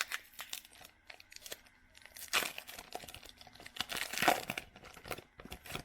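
Wrapper of a Donruss Optic basketball card pack being torn open and crinkled, with two louder rips about two and four seconds in.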